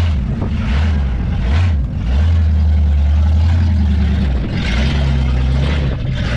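Engines of classic American cars and trucks running low and loud as a convoy rolls past, the pitch stepping up and down as vehicles move off and go by.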